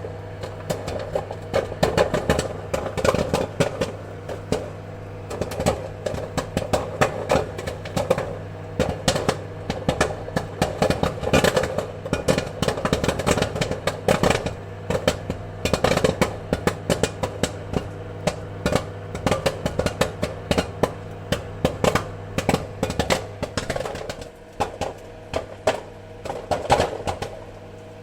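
Popcorn kernels popping in quick, irregular bursts over a steady low hum. The pops grow sparser near the end.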